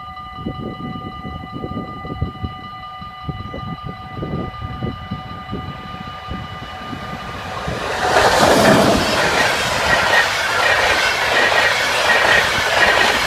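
Level-crossing bells ringing steadily, then about eight seconds in a locomotive-hauled passenger train reaches the crossing and passes with a loud rush and clatter of wheels on rail.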